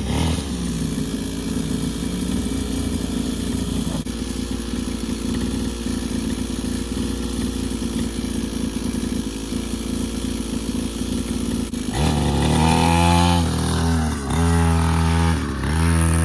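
Small dirt bike engine running steadily, then louder with its pitch rising and falling from about twelve seconds in.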